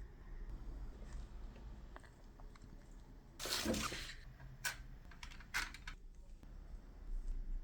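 Light handling sounds of small craft work: a brief rustling scrape about three and a half seconds in, then a few sharp clicks, over a low steady hum.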